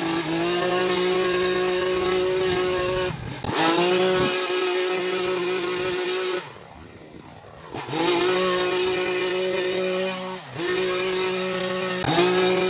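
Small petrol engine of gas-powered lawn equipment running steadily at high speed. It dips briefly a couple of times and drops to a low, quieter speed for about a second midway before coming back up.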